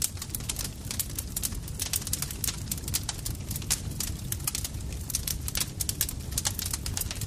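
Campfire crackling: frequent, irregular sharp pops and snaps over a steady low rumble of the burning fire.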